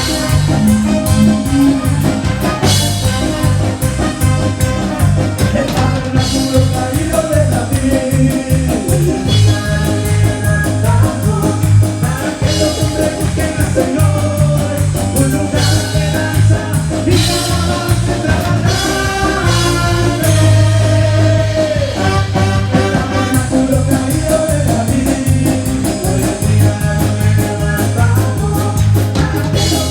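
Live band playing a lively praise song, with drum kit, strong bass and singing.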